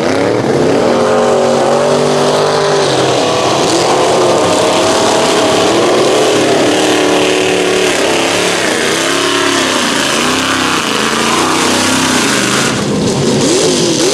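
Mud truck engine at wide-open throttle on a drag pass, loud throughout. Its pitch holds high and steady at first, then wavers and dips before rising again, and swings quickly up and down near the end.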